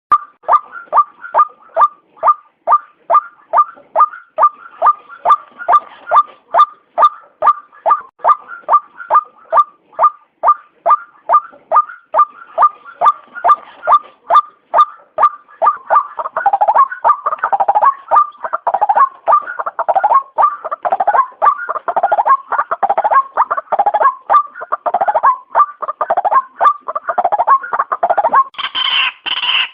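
White-breasted waterhen (ruak-ruak) calling: a rapid, even string of short repeated notes, about two a second. About halfway through the calls become denser and lower, overlapping one another, and a louder, higher-pitched call comes in near the end.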